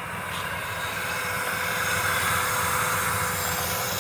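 Dodge Dakota engine running at idle with its air box off, a hiss growing louder over the first two seconds, then holding steady. The engine is burning off water that was misted into the intake to clean it.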